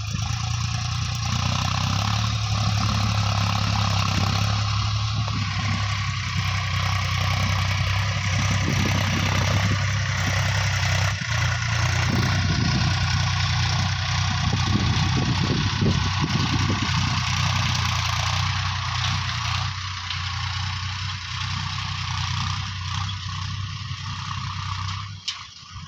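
Mahindra tractor's diesel engine running steadily at a low rumble, the hum cutting off near the end.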